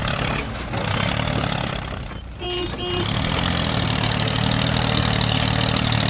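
Steady engine-like hum, low and even, dipping briefly about two seconds in, with two short electronic beeps just after the dip.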